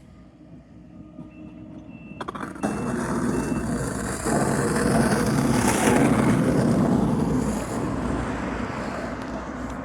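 A motor vehicle passing by: a steady rush of engine and tyre noise that swells from about two seconds in, peaks in the middle and slowly fades.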